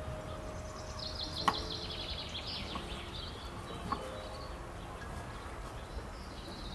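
A bird singing a fast trill of short falling notes for about two seconds, starting about a second in. Meanwhile a kitchen knife slicing a tomato taps twice on a wooden cutting board, the first tap being the loudest sound.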